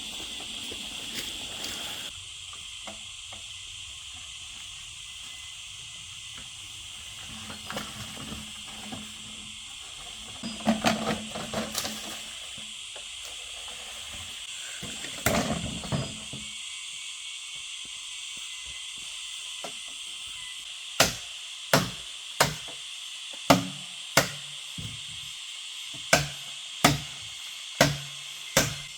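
A steady high hiss with a few bursts of clattering, then, in the last third, a run of sharp, evenly spaced knocks about one and a half a second, each with a short dull thud, like chopping on wood.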